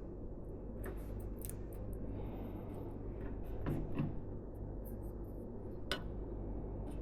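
Light clicks, taps and handling knocks of computer parts being fitted by hand, with a couple of duller knocks a little past the middle and a sharp click near the end, over a steady low hum.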